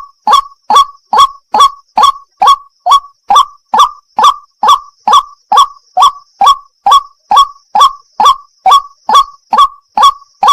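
White-breasted waterhen (wak-wak) calling: a short harsh note repeated steadily about two and a half times a second without a break.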